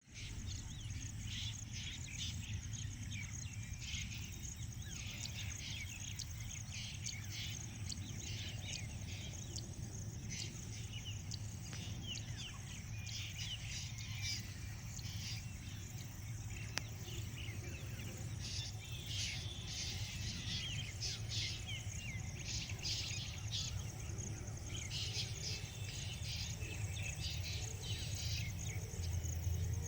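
Outdoor ambience of many small birds chirping in irregular clusters, with insects calling, over a steady low background rumble.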